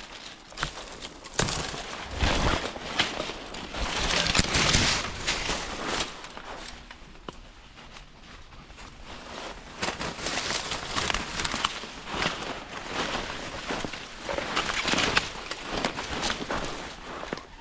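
Footsteps through dry field cover, with irregular crackling and swishing as legs push through brittle grass and brush, coming in louder stretches.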